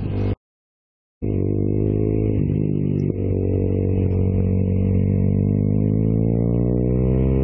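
Sport motorcycle engine running under load, its pitch rising slowly and steadily as the bike accelerates, with a brief dip about three seconds in. It starts about a second in, after a moment of dead silence.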